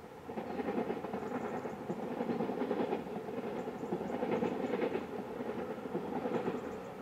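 A passenger train running along the line, with a dense rumble and a run of rhythmic clicks. It comes up about half a second in and eases off near the end as the train moves away.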